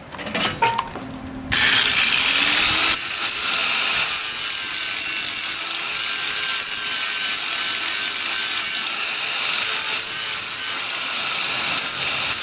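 An electric power sander spins up and then runs steadily against the surface of a plastic aero part, with a few short dips in the grinding noise. This is the sanding step of repairing cracks and scratches.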